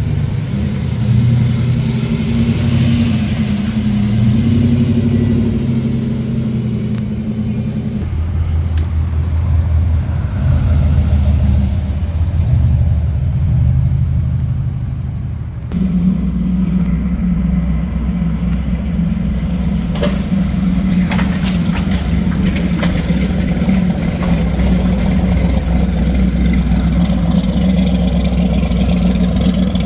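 Car engines running and revving through their exhausts, with the engine sound changing abruptly twice as one vehicle gives way to another. A few sharp clicks come about two-thirds of the way through.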